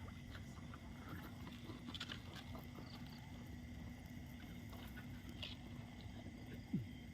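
Faint outdoor background: a steady hum and high steady tone with scattered small clicks, and a short falling animal call near the end.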